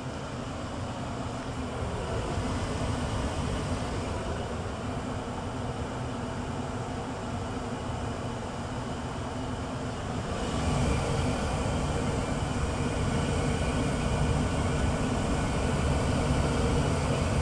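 1994 Tempstar SP80 gas furnace running with its burners lit, a steady rushing hum that steps up louder and brighter about ten seconds in.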